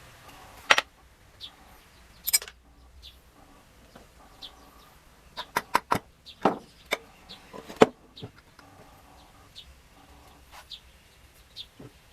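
Sharp clinks and knocks of metal engine parts and tools being handled during engine disassembly, most of them bunched in the middle. Faint short bird chirps come at intervals behind them.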